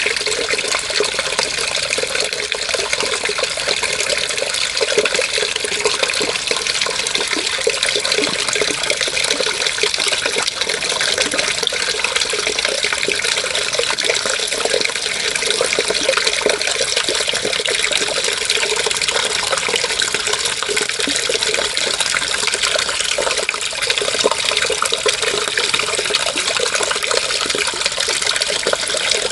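Running water, a steady, unbroken rush and splash with no pauses or changes.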